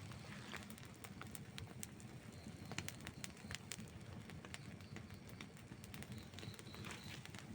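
Wood campfire burning, crackling with many small irregular pops over a low steady rumble.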